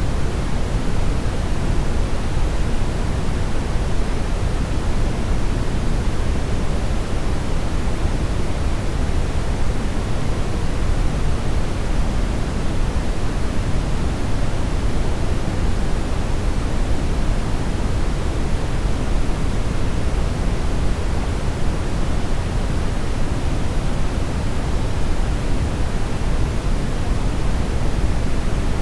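Steady brown noise: an even, deep rushing hiss, heaviest in the bass, with no changes or events.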